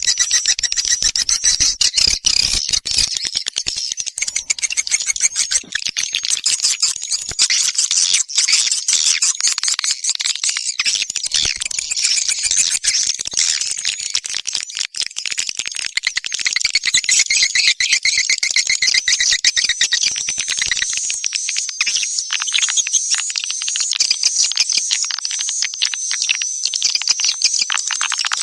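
Swiftlet calling recording: a dense, continuous chatter of rapid high clicks and twittering trills, the kind of call played to lure swiftlets to a nesting house.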